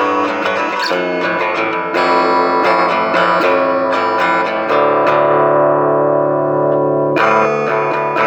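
Guitar music: a run of plucked notes, then a chord left ringing for about two seconds in the middle before the picking starts again.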